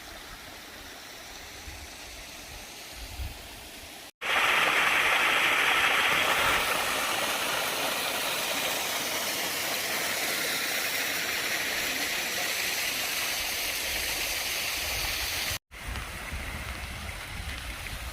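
Rushing water of a fast forest stream and waterfall, a loud, steady, even rush. It cuts in suddenly about four seconds in and cuts out again near the end, with fainter water noise and a low rumble either side.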